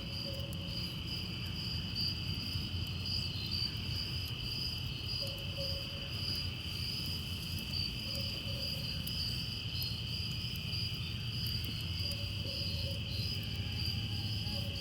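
Insect chorus trilling steadily in two high, unbroken bands, over a low steady rumble.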